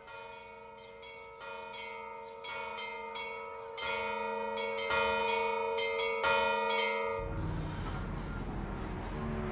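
Church bells ringing, with strikes about once a second that grow louder. About seven seconds in, a loud car engine comes in and drowns them, its pitch rising as it revs.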